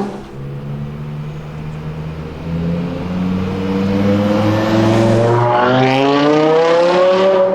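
BMW car engine accelerating hard, its note getting louder from about two seconds in and climbing steadily in pitch through the second half.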